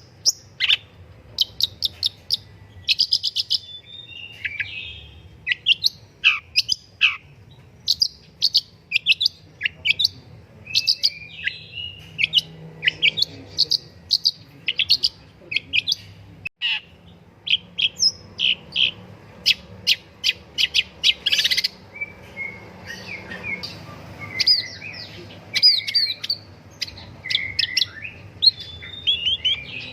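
Long-tailed shrike (pentet) singing a fast, varied song of short sharp chirps, downward-sweeping whistles and warbled notes in quick succession.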